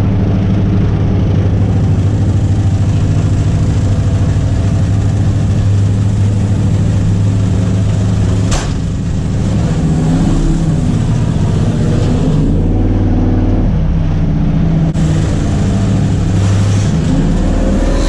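Ford 302 Windsor V8 of an XF Falcon race car running steadily, its note rising and falling through the second half. A single sharp click comes about eight and a half seconds in.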